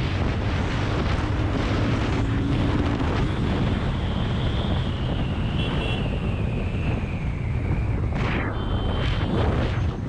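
Wind rushing over the microphone of a moving motorcycle, with engine and road rumble underneath. A faint high whine slowly falls in pitch through the middle.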